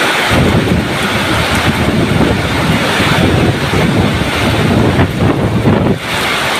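Heavy rain with strong gusting wind, the wind buffeting the microphone in uneven low rumbles over a steady, loud hiss of rain.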